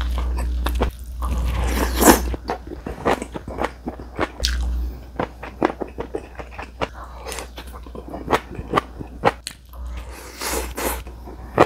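Close-miked eating: a person chewing crunchy vegetable side dishes and rice, a dense run of small crisp clicks and crackles. Two longer, louder wet mouth sounds come about a second in and again near the end.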